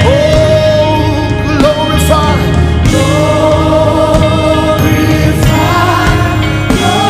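Live gospel worship music: a singer holds long, wavering notes over steady band chords, with a pause in the singing around the third second.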